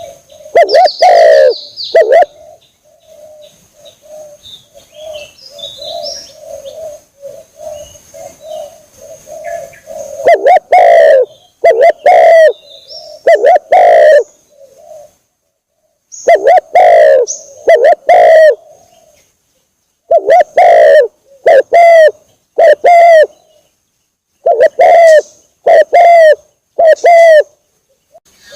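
Spotted dove (tekukur) cooing, played loud and clipped as a lure call: short phrases of deep coos repeated in groups, coming closer together toward the end. Between about 3 and 10 seconds there is only a quieter run of rapid low coos, with faint high chirps from small birds.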